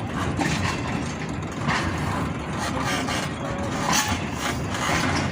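Steady rumble and rattle of a moving passenger train heard from inside a coach, with scattered short clicks and knocks.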